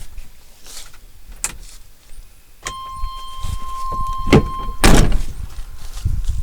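A truck cab's steady electronic warning tone sounds for about two seconds, then the cab door is shut with a heavy thunk about five seconds in, after a sharper click just before it.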